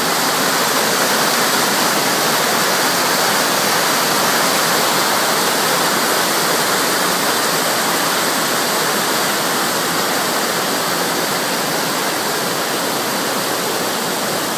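Waterfall: a large volume of water pouring out of the rock and crashing down, a steady, loud, even rush.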